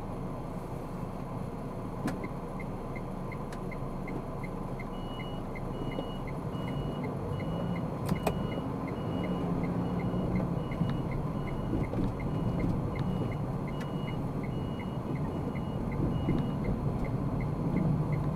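Car cabin road and engine noise with the turn-signal indicator clicking steadily, about three clicks a second, starting about two seconds in. A high, short beep pulses in step with it through most of the middle.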